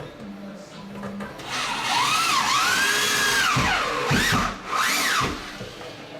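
Cordless drill driving a screw: the motor whines up and down in pitch as the trigger is eased on and off, in one run of about two and a half seconds starting a second and a half in, then a second short burst.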